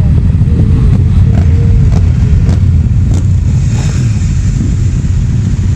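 Off-road motorcycle running, with a heavy low rumble throughout, a few sharp knocks and a brief hiss about four seconds in.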